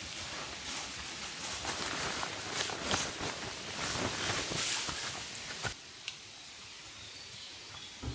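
Rustling and small crackling knocks, as of something being handled or moved among dry material, that cut off abruptly about two-thirds of the way through, leaving a quieter outdoor background with a few faint high chirps.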